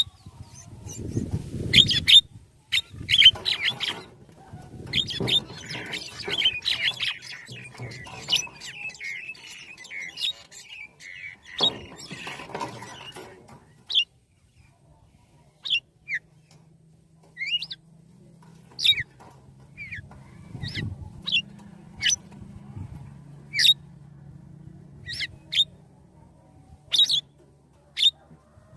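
Birds calling: dense, jumbled squawking chirps for about the first half, then single short high chirps roughly once a second.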